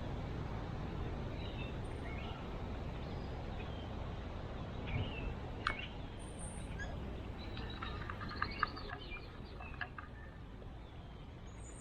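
Scattered bird chirps and short calls, busiest a little past halfway, over a steady low background rumble.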